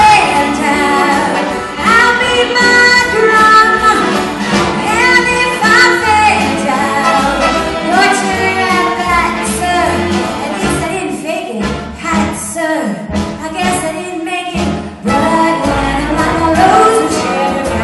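A female singer belting a Broadway show tune live, with band accompaniment and bass notes underneath; the backing thins out for a few seconds about two-thirds of the way through.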